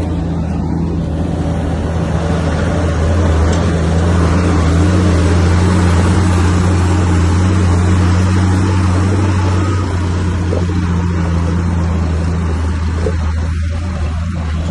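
Diesel engine of heavy earthmoving machinery running steadily, a deep hum with a layer of mechanical noise that grows louder a few seconds in and eases off in the second half.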